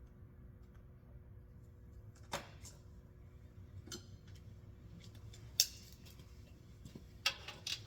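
Hand tools clinking on metal hardware while a nut is being worked loose: scattered light metallic clicks and taps, the sharpest about halfway through and a short cluster near the end.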